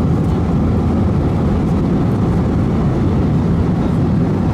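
Steady, even cabin roar of an Airbus A321-231's IAE V2500 turbofan engines and the airflow past the fuselage, heard from a passenger seat inside the cabin, with no change in pitch or level.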